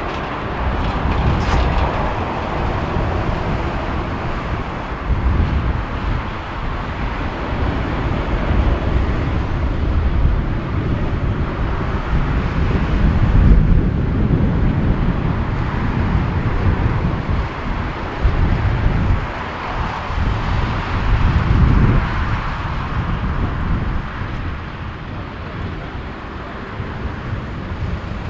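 Strong gusty wind buffeting the microphone in low, irregular rumbles, over a steady broad roar.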